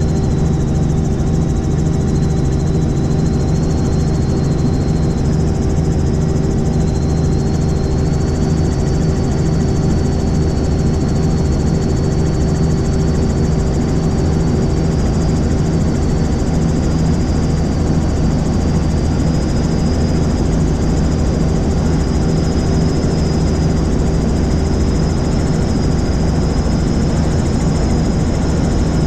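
Helicopter running steadily, a dense, unchanging low drone with a faint high whine that slowly rises in pitch.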